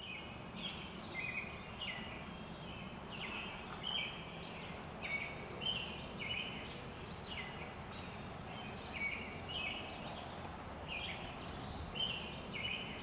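Birds singing: short chirping calls repeating about once or twice a second over a steady background hiss of outdoor ambience.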